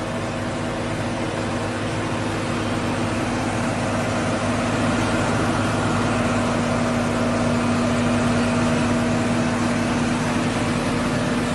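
Tractor's diesel engine running steadily under heavy pulling load, getting gradually louder over the first few seconds and then holding level.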